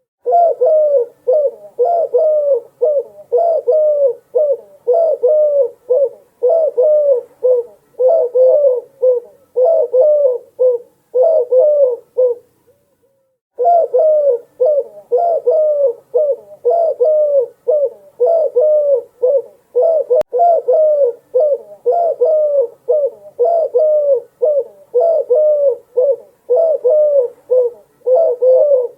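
Dove cooing: a steady run of short repeated coos, about two a second, each rising and then falling in pitch, broken by one pause of about a second and a half a little before the middle.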